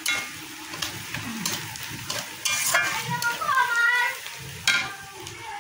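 Oil sizzling in a metal karai as onion, chili and spice paste fry, stirred and scraped in quick strokes with the masala catching on the pan. A short sliding squeaky tone sounds about three seconds in.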